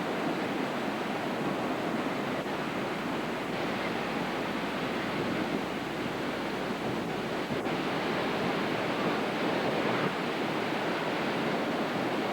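Hurricane-driven surf and strong wind: a steady, unbroken rush of breaking waves.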